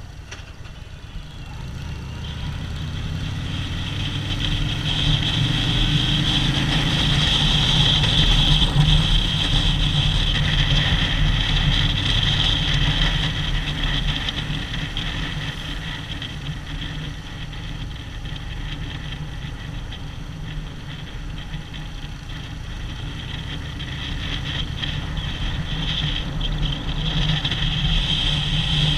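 Harley-Davidson V-twin motorcycle engine running on the road, growing louder over the first several seconds, easing off in the middle and building again near the end.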